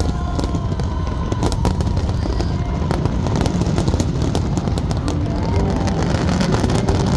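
Fireworks display going off in quick succession: many sharp bangs and crackles over a constant low rumble.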